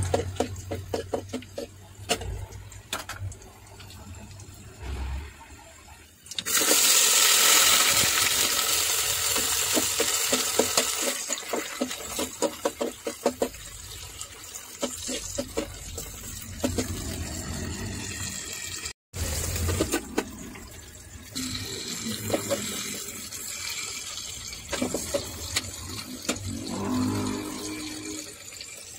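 Garlic frying in oil in a metal pan while a metal spoon stirs and scrapes. About six seconds in, chopped tomatoes go into the hot oil and a loud sizzle bursts up, then eases into steady frying with more stirring.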